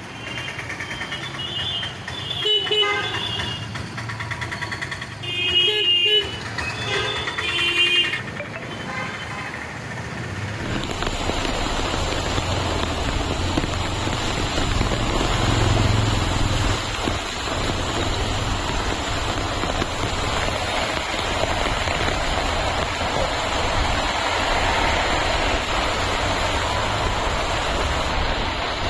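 Vehicle horns honk several times in street traffic. About ten seconds in, a steady loud rushing noise takes over.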